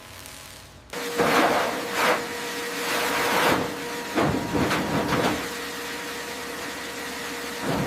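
Workshop machinery noise that starts suddenly about a second in: a steady hum under hissing surges that come and go every second or so.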